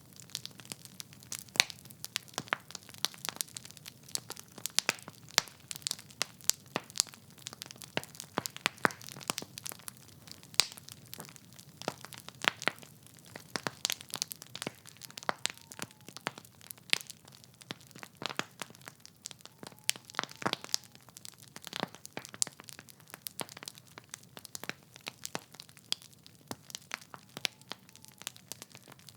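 Logs burning in a fireplace, crackling and popping with many irregular sharp snaps over a low steady rumble.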